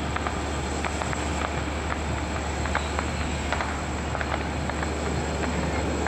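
Train rolling past: a steady rumble with scattered irregular clicks and clacks of the wheels and cars.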